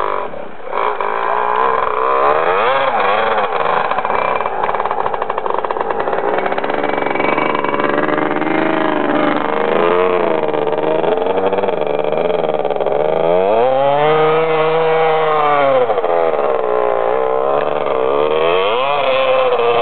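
Husqvarna 250 dirt bike engine under hard throttle, its pitch climbing and dropping repeatedly as the rider works the throttle and gears, with one long rise and fall about two-thirds of the way through.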